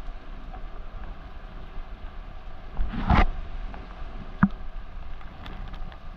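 Steady hiss of rain falling on the yacht and the sea around it, with a louder rush of noise about three seconds in and a single sharp knock shortly after.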